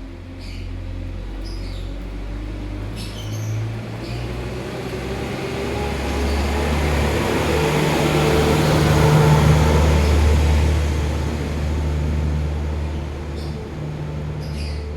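A motor vehicle's engine running, growing louder to a peak about nine seconds in and then easing off a little. A few short high lovebird chirps come in around three seconds in and again near the end.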